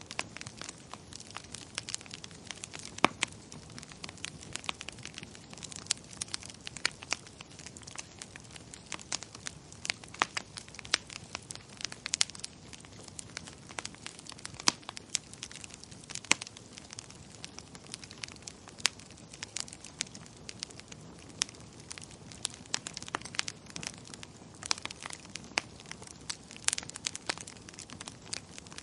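Wood fire crackling in a fireplace: a steady low hiss of flames with frequent irregular sharp pops and snaps.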